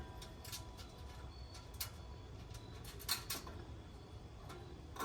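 Scattered light clicks and taps of metal grill parts being handled and fitted by hand, over a steady low rumble.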